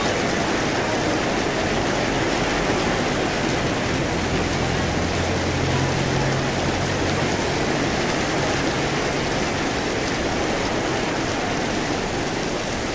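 Heavy rain pouring down in a dense, even hiss, with a faint low hum in the middle of it.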